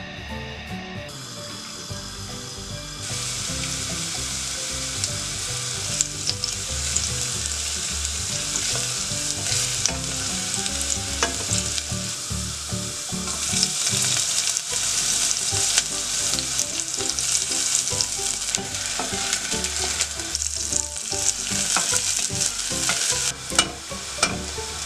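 Chopped garlic sizzling in hot oil in a saucepan, stirred with a wooden spatula that knocks and scrapes against the pan now and then. The sizzle gets louder about three seconds in.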